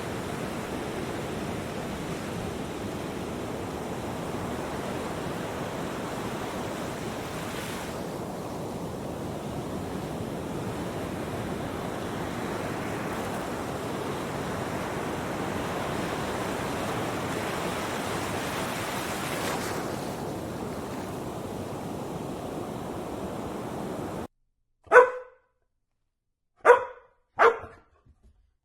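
A steady rushing noise that cuts off suddenly, followed near the end by a dog barking three times in short, sharp barks, the last two close together.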